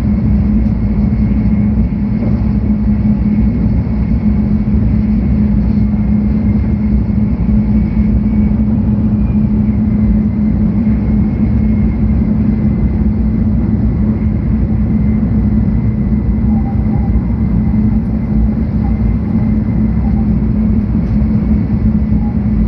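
Inside the passenger cabin of a 700 series Shinkansen running steadily: a loud, even low rumble with a steady hum and a faint high whine over it.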